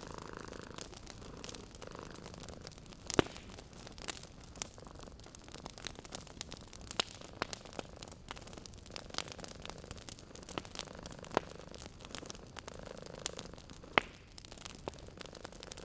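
Wood fire crackling with irregular snaps and pops, two of them louder, about three seconds in and near the end, over a cat purring in the background.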